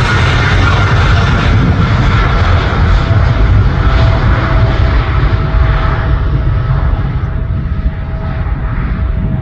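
Jet airliner's engines on takeoff, a loud low rumble with a faint whine that slowly drops in pitch, the sound losing its high end and easing slightly as the aircraft moves away.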